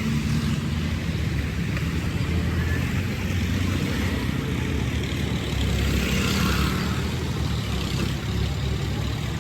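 Tractor diesel engine running steadily, with a low, even engine drone.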